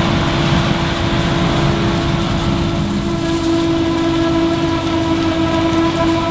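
Heavy farm machinery running under load: a steady diesel rumble with a sustained whine that grows stronger about halfway through.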